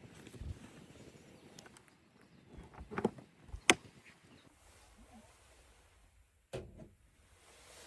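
A few scattered knocks and clicks: a short cluster about three seconds in, one sharp, loud knock just before four seconds, and another pair near the end.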